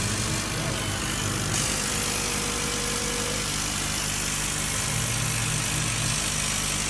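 Laser cutting and engraving machine running, a steady mechanical hum with a constant hiss of air, and a faint steady tone for a couple of seconds early on.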